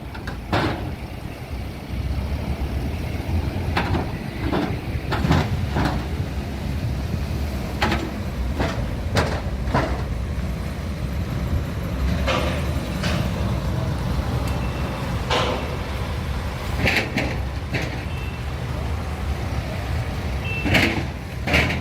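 Steady low rumble of heavy vehicle machinery, with scattered clanks and knocks and a few short high beeps later on.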